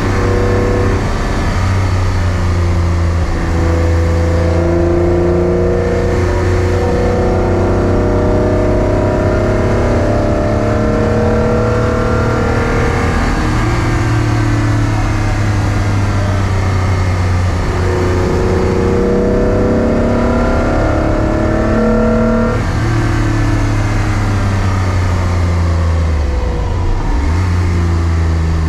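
Car engine pulling hard up through the gears, its pitch climbing slowly and dropping sharply at an upshift about halfway through and again near the end.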